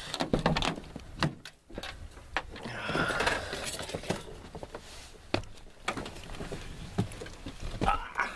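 Keys jangling among a scattered run of sharp clicks and knocks, as keys and a door are handled.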